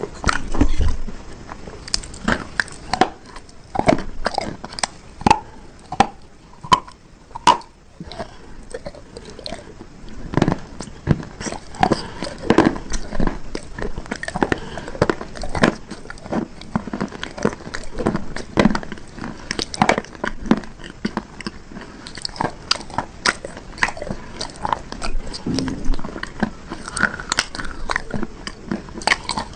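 Close-up biting and chewing of hard, brittle bars: repeated sharp crunches and crackles as pieces are bitten off and ground between the teeth, with a brief lull a few seconds in.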